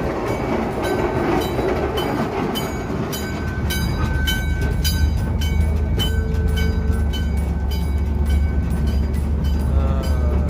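Vintage train braking to a stop with the brake on. Rapid clicking and a thin high squeal come from the wheels and brakes over a steady low rumble, which grows louder about four seconds in.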